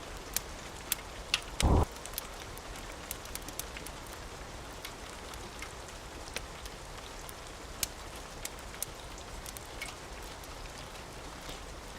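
Steady rain hiss with scattered sharp crackles and pops from a wood fire. A short, loud low thump comes a little under two seconds in.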